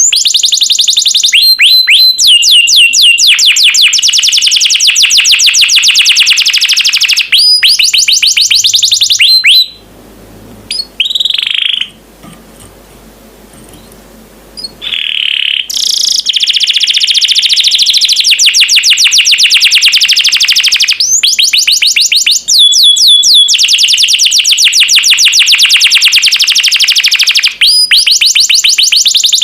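Domestic canary singing loud, fast trills and rolls, one run of rapid notes after another, with a pause of a few seconds about a third of the way through broken by a couple of short softer calls.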